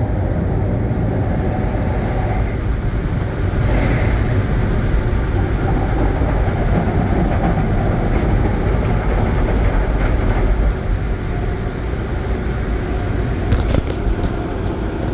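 Automatic tunnel car wash machinery running, heard from inside a van's cabin: a steady, loud, low rumbling roar, with a few sharp ticks near the end.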